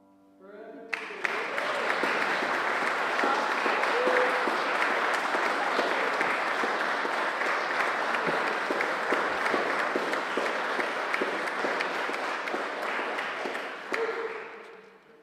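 Audience applauding, rising quickly about half a second in, holding steady, then dying away near the end.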